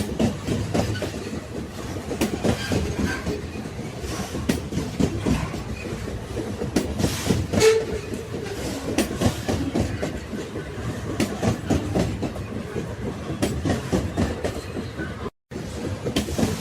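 Railway carriages rolling along the track: a steady rumble with the wheels clicking over the rail joints. The sound cuts out for a split second about 15 seconds in.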